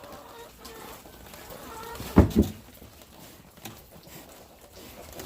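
Farm chickens clucking softly, with two quick knocks close together about two seconds in.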